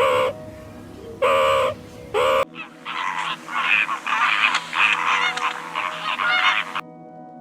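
Animal calls: three short, pitched calls, then after an abrupt change about two and a half seconds in, a dense chorus of many overlapping calls that stops shortly before the end.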